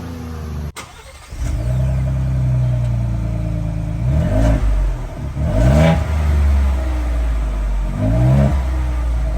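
Ford Bronco engine idling through a freshly installed aFe Apollo GT stainless-steel cat-back exhaust, blipped three times. Each rev rises and falls back to idle with a deep growl. There is a short break about a second in.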